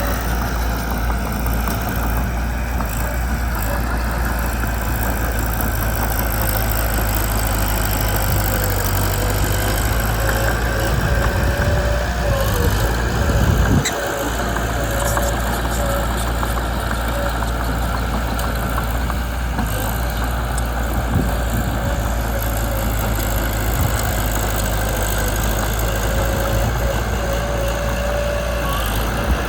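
Mitsubishi BD2 small bulldozer's diesel engine running steadily, briefly louder for a couple of seconds around the middle.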